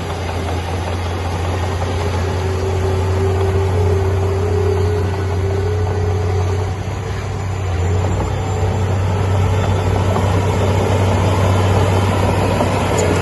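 Heavy diesel engine of earthmoving machinery running steadily: a constant low drone with a fainter higher whine wavering above it.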